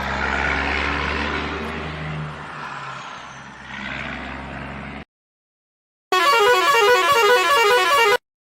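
A vehicle engine runs steadily for about five seconds and then cuts off suddenly. After a second of silence, a loud musical horn plays a fast tune of quickly stepping, repeating notes for about two seconds.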